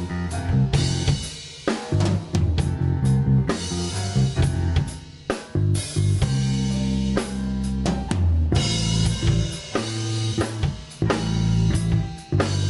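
Instrumental rock band playing live: a busy drum kit over low, held bass notes and guitar, broken by several sudden stops where the whole band cuts out together for a moment.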